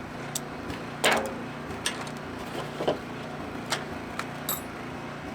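Small 40cc inverter generator engine running steadily while still cold, with several sharp clicks and knocks over it, the loudest about a second in.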